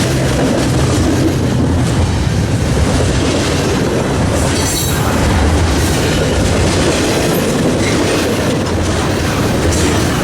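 Freight train rolling past, its wheels clacking over the rail joints in a steady rumble, with a brief faint high squeal from the wheels near the middle.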